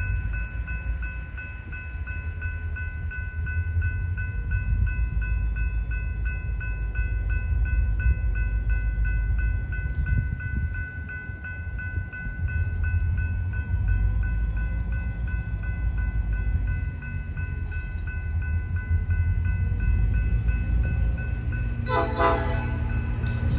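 A train running past: a steady low rumble of locomotives and cars, with steady high-pitched ringing tones throughout and a short pitched burst near the end.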